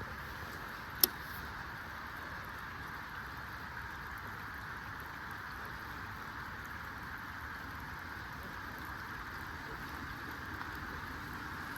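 Steady hiss of falling rain, with one sharp click about a second in.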